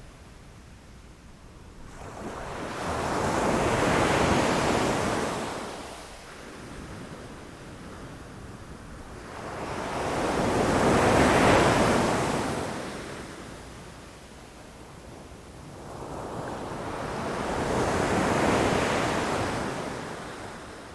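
Ocean waves breaking against rocks: three waves surge in and wash back, each building over a couple of seconds and fading away, about seven seconds apart.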